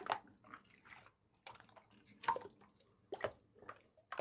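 A series of short, soft drip-like taps, irregularly spaced, roughly two to four a second, with quiet gaps between them.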